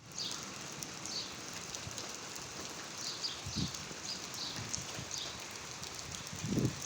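Steady rain falling, a constant hiss and patter, with short high chirps recurring every second or so and a couple of low thuds, one midway and one near the end.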